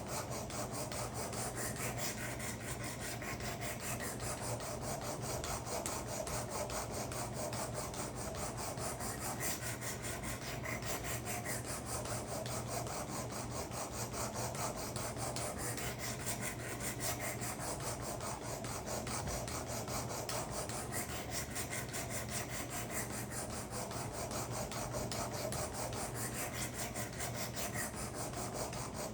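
Steady rasping of a coarse abrasive sharpening stone stroked along a steel karambit blade, grinding metal off to set the edge profile.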